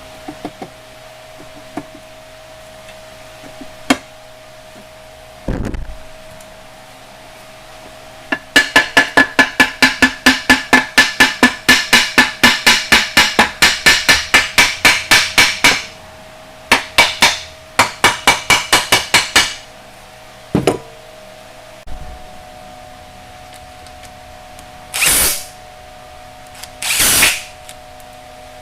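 Rapid metallic hammering, about five ringing strikes a second for some seven seconds, then a shorter run of strikes after a brief pause. Two short hissing bursts follow near the end.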